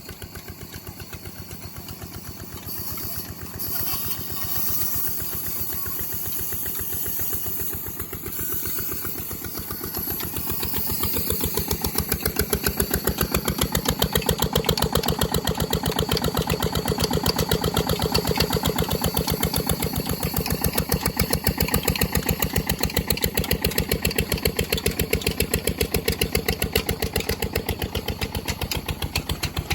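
Diesel engine running in the cold with an even, rapid pulse of firing strokes. About eleven seconds in it grows markedly louder and fuller as it picks up.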